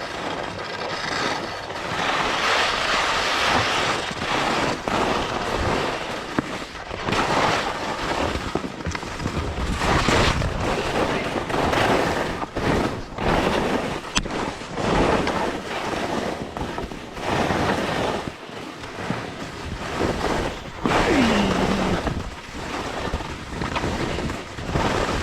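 Skis scraping and carving over snow with wind rushing over the camera microphone, surging and easing every second or two. Near the end there is a brief falling vocal sound.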